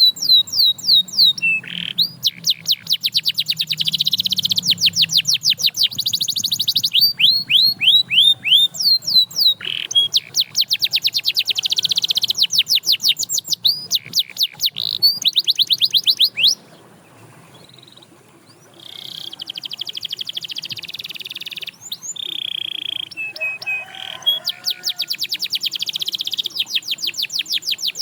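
Canary singing: long, rapid trills of quickly repeated sweeping notes that change pattern every few seconds, breaking off for about two seconds a little past halfway before the song starts again.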